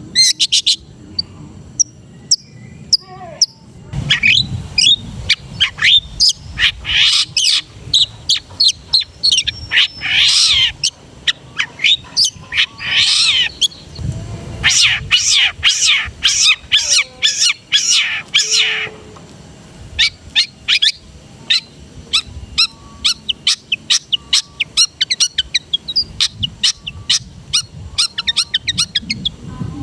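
Long-tailed shrike (cendet) singing a varied song of sharp chirps, whistles and quick glides, rich in imitated phrases of other birds. About two-thirds of the way in it changes to a fast run of short, clipped notes.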